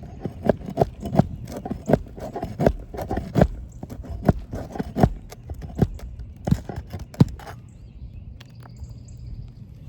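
Hammer striking nails among asphalt composition shingles: about a dozen sharp knocks, roughly one every 0.7 s, stopping about seven and a half seconds in.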